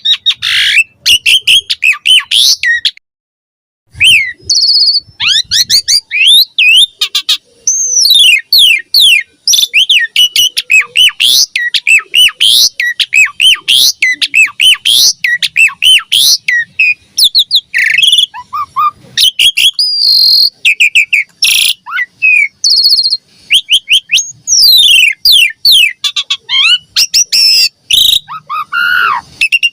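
Asian pied starling (jalak suren) singing nonstop in a rapid, dense run of sharp whistles, rising and falling glides and chatter, with a brief break about three seconds in.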